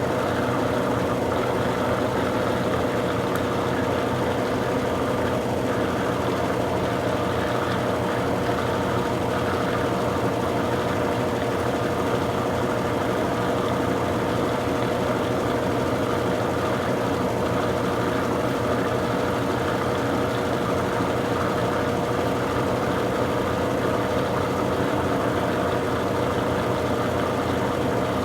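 Consul Super Cargo 8 kg top-loading washing machine spinning a load of towels: a steady motor whine over a continuous rattle as the tub shakes the cabinet. The machine keeps jumping during the spin.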